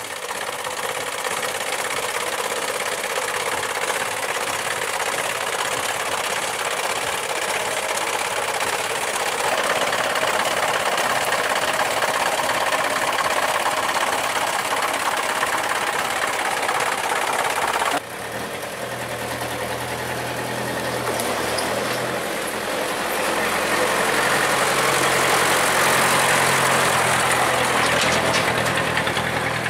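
Truck engine running with steady road and mechanical noise; an abrupt cut about two-thirds of the way through, after which a low, steady engine hum is clearer under the noise.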